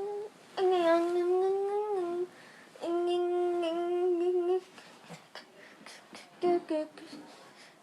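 A high voice vocalising in long held, wordless notes: two steady tones of about a second and a half each, then two short ones near the end.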